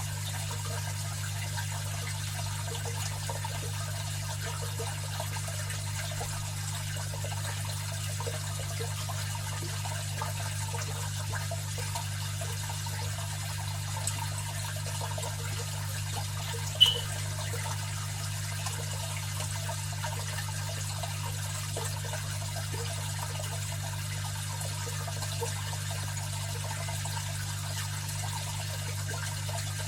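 Aquarium filter running: water trickling and splashing steadily over a constant low motor hum, with one short sharp click a little past halfway.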